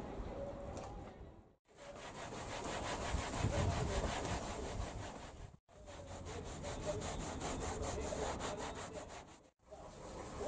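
Fast back-and-forth scrubbing on a car's interior surfaces, several strokes a second. It comes in three short stretches, each cut off abruptly about every four seconds.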